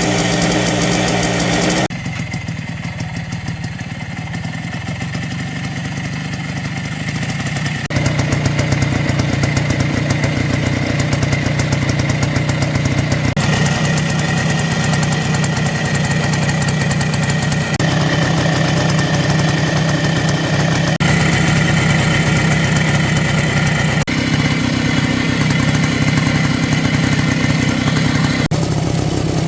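Minsk motorcycle's single-cylinder two-stroke engine running at idle, with a fast, even pulsing. The sound changes abruptly every few seconds from one cut to the next.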